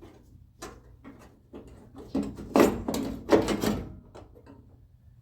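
Metal clicks, knocks and clunks of a car door latch assembly and its lock rods being worked into place inside the door shell, with a run of louder knocks in the middle.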